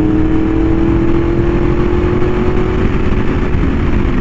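Yamaha R1M's crossplane inline-four through an SC Project exhaust, running under steady throttle with its pitch slowly climbing, then dropping near the end. Wind rush on the microphone runs underneath.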